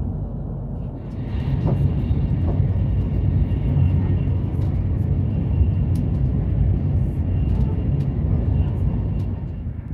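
Passenger train running at speed, heard from inside the carriage: a steady rumble of wheels on rails with a rushing hiss, getting louder about a second in, and a few faint clicks.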